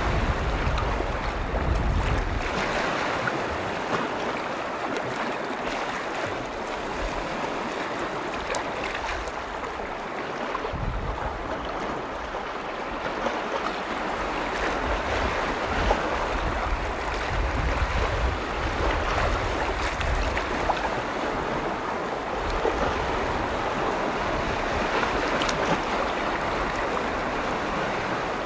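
Lake waves washing and splashing steadily, with wind rumbling on the microphone in gusts, strongest at the very start and again around the middle.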